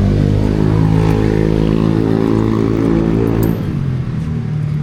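Motorcycle engine running at steady revs, easing off about three and a half seconds in.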